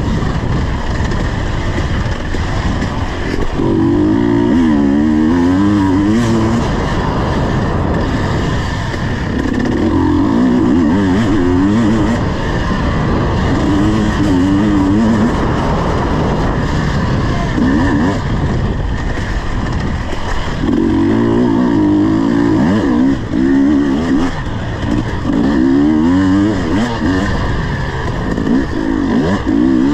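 KTM 250 EXC two-stroke dirt bike engine running under way, its pitch rising and falling over and over as the throttle is opened and closed, in spells of a few seconds each.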